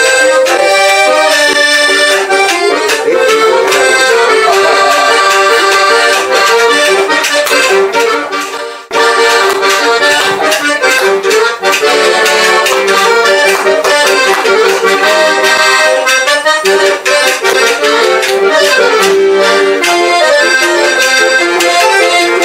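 Accordion playing a flowing tune with held chords and moving melody notes. The playing breaks off briefly about nine seconds in, then carries on.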